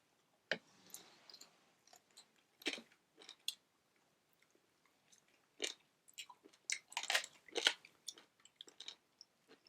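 Close-up chewing and biting: irregular wet smacks and small crunches of a person eating, sparse at first and coming thicker in the second half.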